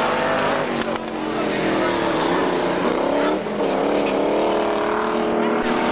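Several stock car engines running at high revs as the cars race. The pitch dips sharply about three seconds in, then climbs again as the engines rev back up.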